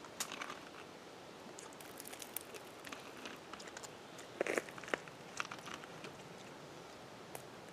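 A person eating a tangerine: scattered small wet clicks and crackles of chewing and handling the fruit and peel, with a louder cluster of them about four and a half seconds in.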